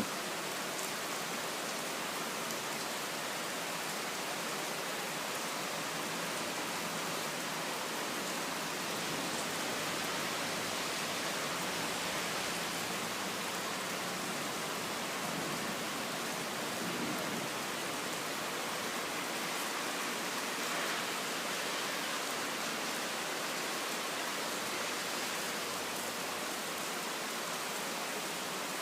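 Heavy rain pouring steadily, an even, dense hiss with no thunder.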